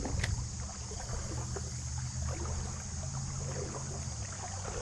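Outdoor creek ambience: a steady low rumble of moving water and wind on the microphone, with faint small irregular ticks and splashes and a steady high hiss.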